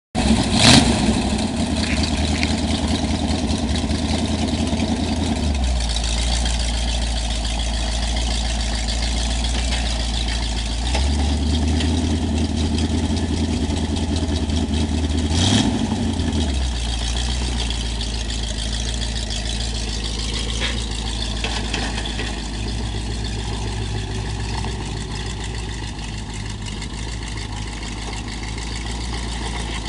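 Oldsmobile 350 V8 race-car engine with straight pipes and a Motorcraft 2100 carburetor, running at a loud idle as the car is driven off a trailer. Its pitch shifts several times with the throttle, and there are two short sharp sounds, one about a second in and one about halfway through.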